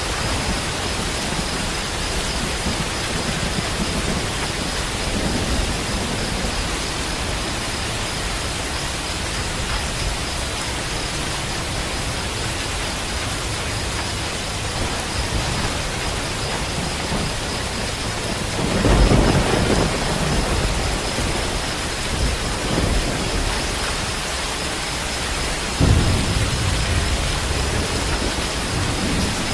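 Steady rain falling, with thunder: a low rumble of a couple of seconds about two-thirds of the way in, and a sharper, sudden clap near the end that rolls away.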